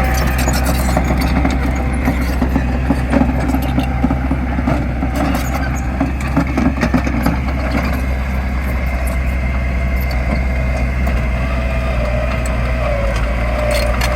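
Diesel engine of heavy earthmoving machinery running steadily under work, with scattered clicks and knocks over it and a wavering whine in the second half.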